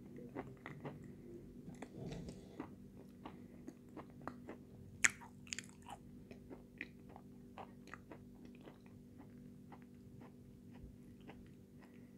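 Close-up sound of a person chewing with the mouth closed: many small crunches and wet mouth clicks, with one louder crunch about five seconds in. A faint steady hum runs underneath.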